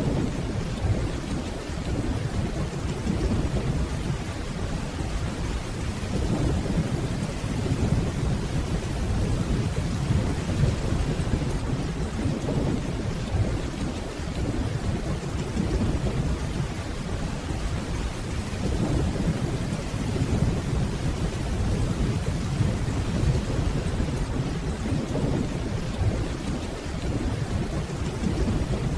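Steady rainfall with a low, rolling rumble of distant thunder underneath that swells and fades slowly.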